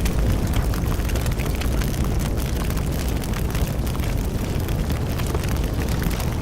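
Bonfire burning: a steady low rumble of flames with frequent small crackles and pops throughout.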